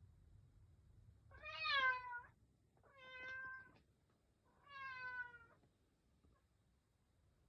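Domestic cat meowing three times, each call about a second long, the first the loudest.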